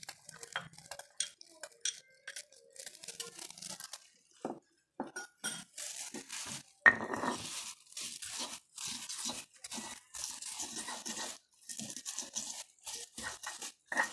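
Stone pestle crushing and grinding fresh chilies with salt in a stone mortar (cobek): repeated short crunching, scraping strokes, denser from about four seconds in, with one sharp knock of stone on stone about seven seconds in.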